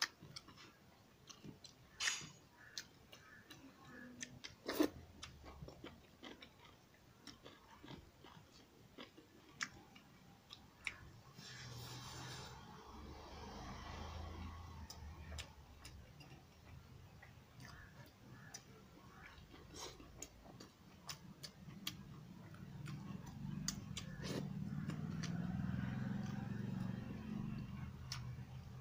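A person eating rice and chicken curry by hand: faint chewing and mouth sounds, with a few sharp clicks scattered through. A low hum grows louder in the last few seconds.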